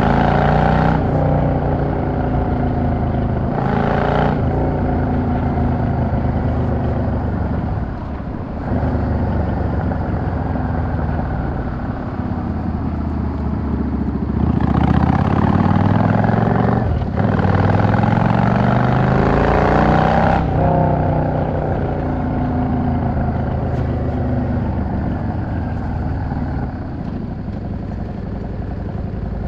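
Yamaha XVS 650 V-Star's air-cooled V-twin engine under way, pitch climbing in repeated pulls as the bike accelerates, with short dips at the gear changes. The longest pull comes about halfway; then the revs fall away as it slows and run on low and steady near the end.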